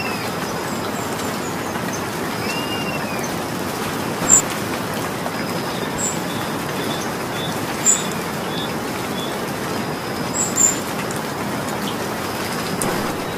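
Steady rain hiss, with a few sharp high ticks a couple of seconds apart and a bird chirping faintly.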